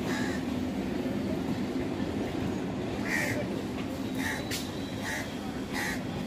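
Express train's coaches rolling away on the rails: a steady low rumble of wheels on track that eases a little as it recedes. Several short, higher sounds cut through it, near the start and four times in the second half.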